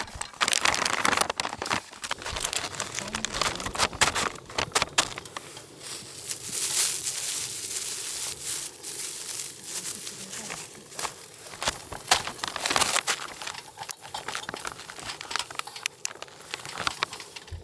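Plastic food packaging being crinkled, rustled and torn open, a dense run of crackling rustles.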